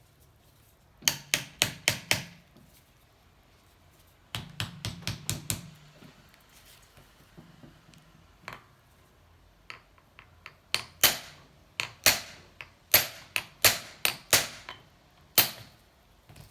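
Hammer blows on the stuck cylinder of a Honda C70 engine, which has not come free: two quick runs of about six light strikes, then a dozen or so louder, spaced-out strikes.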